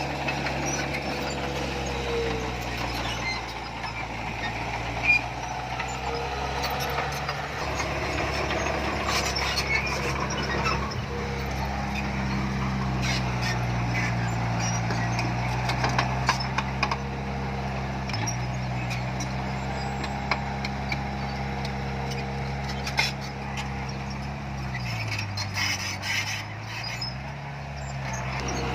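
Diesel engine of heavy earthmoving machinery running steadily under load, with scattered metallic clanks and rattles. The engine note drops near the end, then climbs again.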